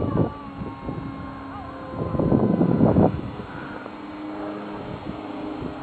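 Small model-airplane engines running with a steady drone, with a louder rushing stretch about two seconds in.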